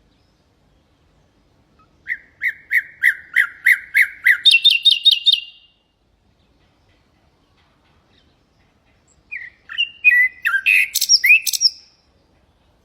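Common nightingale singing two song phrases. The first is a run of repeated whistled notes that speeds up, then jumps to a faster, higher trill. After a pause of a few seconds comes a jumbled phrase of varied, sliding notes.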